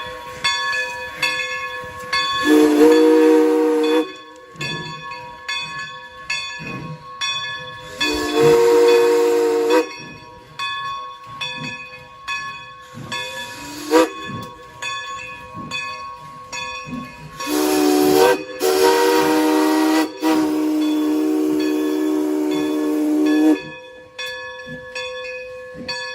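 Steam whistle of New Hope & Ivyland 2-6-2 steam locomotive #40 sounding a chord in several blasts: one about two seconds in, one about eight seconds in, a brief rising toot near the middle, then a broken blast that runs into a long one of about five seconds. Between the blasts steam hisses and a steady ringing with regular strokes goes on.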